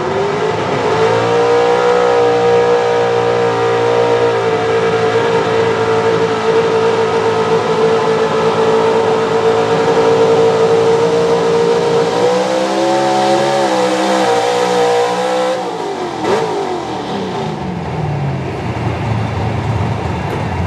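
Pro Stock 4x4 pulling truck's engine revving up and held at steady high revs under full throttle through a sled pull. The revs waver about twelve seconds in, then fall away about sixteen seconds in as it comes off the throttle.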